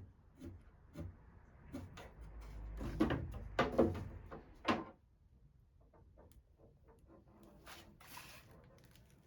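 Old wooden drawer being handled and slid: a few light knocks, then a louder stretch of wood rubbing and scraping in the middle, then small taps and a brief hiss near the end.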